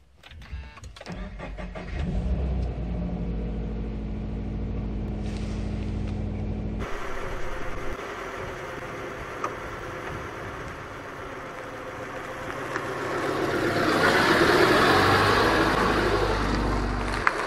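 Toyota 86's flat-four boxer engine cranking and catching about two seconds in, then idling steadily. After a cut, the car's engine and tyre noise build up as it rolls directly over the listening point near the end.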